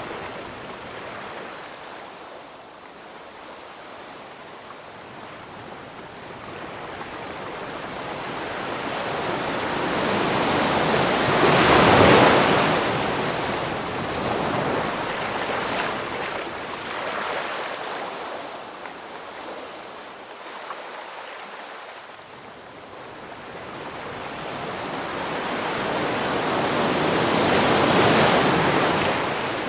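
Ocean waves breaking: the surf swells to a loud peak about twelve seconds in, ebbs, and builds again to a second peak near the end.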